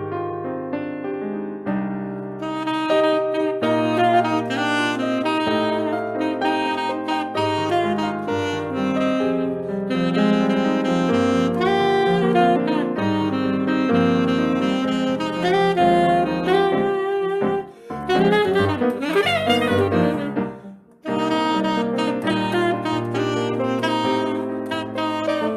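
Saxophone playing a Brazilian jazz piece live with piano accompaniment. The piano plays alone at first, and the saxophone comes in about two seconds in. It plays a fast run of notes about two-thirds of the way through, with two short breaks around it.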